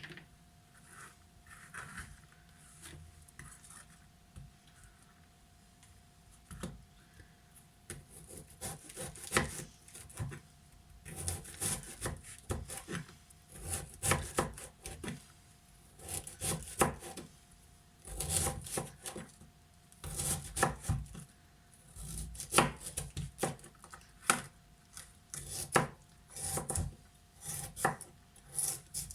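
Knife chopping red cabbage on a cutting board: sharp cuts, sparse for the first several seconds, then in quick uneven runs.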